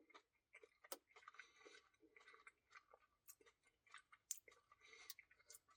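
Faint, close-up chewing and wet mouth clicks from someone eating a cookie dough Blizzard, with a sharper click about a second in and again about four seconds in.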